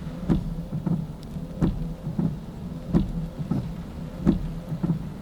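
Car windscreen wipers knocking back and forth at a steady pace, about one stroke every two-thirds of a second, over a steady low engine hum and the hiss of heavy rain.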